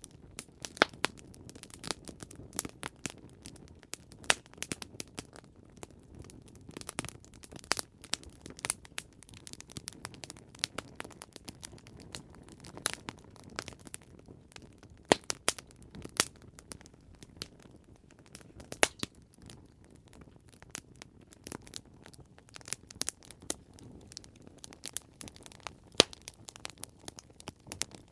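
Campfire crackling: wood burning with irregular sharp pops and snaps over a low steady hiss, a few louder pops standing out.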